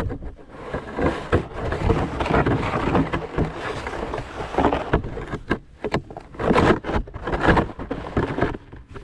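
Snow shovel scraping and pushing snow across the driveway in repeated, uneven strokes.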